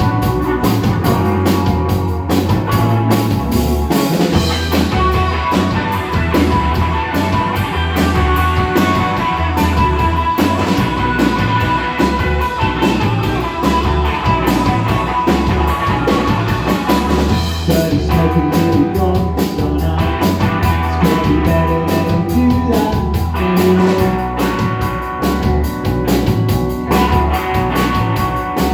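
Rock band playing live, an instrumental passage on drum kit, bass and guitar. The cymbal-heavy drumming drops back for a stretch in the middle and comes back in full about two-thirds of the way through.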